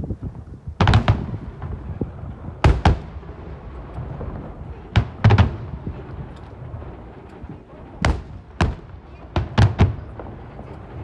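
Aerial firework shells bursting: about a dozen sharp bangs, most coming in quick pairs or clusters of two or three, spread a few seconds apart.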